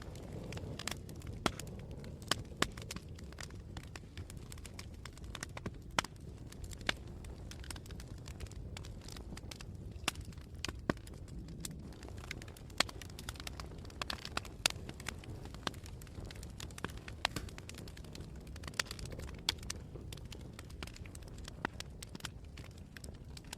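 Campfire burning with frequent sharp, irregular crackles and pops over a steady low rumble of flame.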